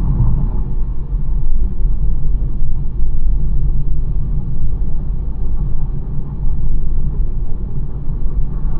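Steady low rumble of a BMW 1 Series on the move: tyre, road and engine noise with no single event standing out.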